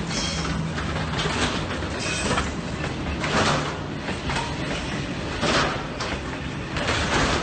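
Moving-vehicle road noise: a steady low engine drone under rushing tyre and wind noise that swells every second or two.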